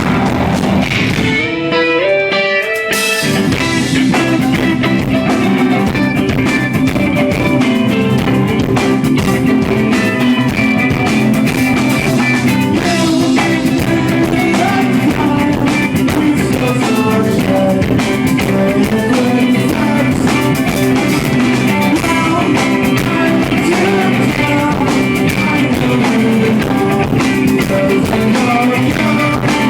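A live rock band playing loudly: electric guitars, bass and drum kit, heard through an audience member's handheld recorder. Near the start the low end drops away under a short rising guitar run, then the full band comes back in.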